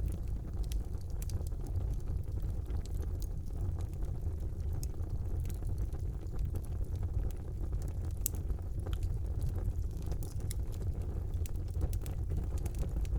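Wood fire burning in a brick fireplace: a steady low rumble of flames with frequent small sharp crackles and pops, one louder pop a little past the middle.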